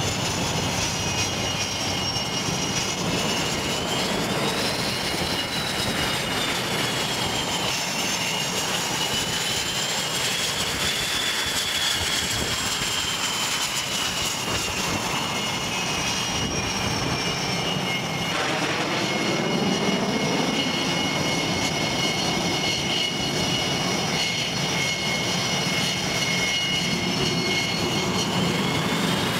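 Jet airliner engines running as a steady roar with a high turbine whine that slowly rises and falls in pitch.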